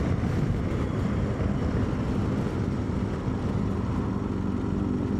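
BMW R1250GS boxer-twin motorcycle engine running at low, steady revs as the bike pulls over.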